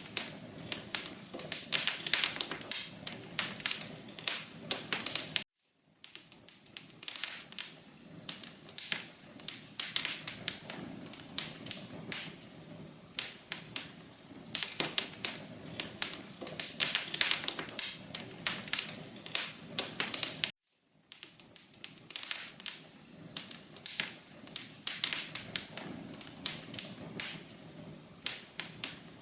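Wood fire crackling in a fireplace: a dense, irregular run of sharp pops and snaps over a low hiss. It cuts out to silence for a moment twice.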